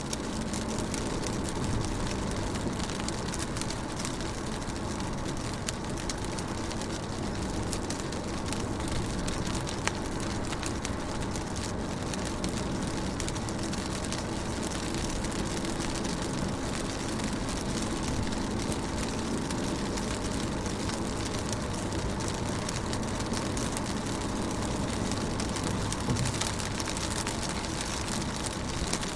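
Steady rain falling on a car's windows and body, heard from inside the car: a constant patter of many small drop taps over a low rumble.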